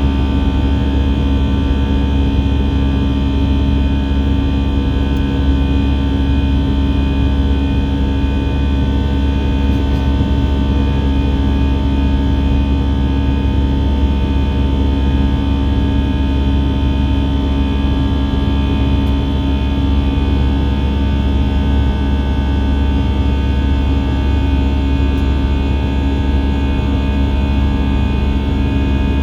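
Airbus A319 jet engines and airflow heard from inside the cabin: a steady, unchanging drone with several constant tones over it.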